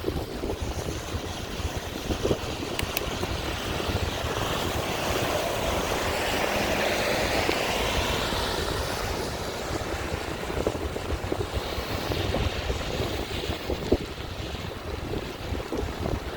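Wind buffeting the microphone, with a distant engine, much like a passing aircraft, swelling in the middle and fading away.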